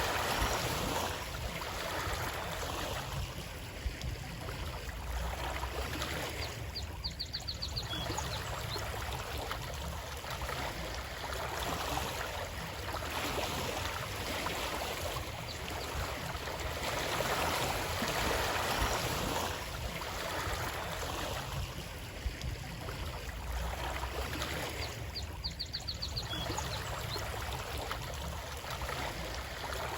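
Flowing water rushing steadily, swelling and easing every few seconds. A brief high trill of quick short notes comes in twice.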